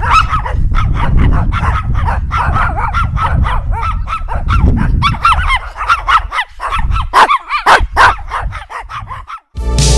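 Dogs barking in a rapid, continuous run of overlapping barks, several a second. The barking cuts off near the end and electronic music begins.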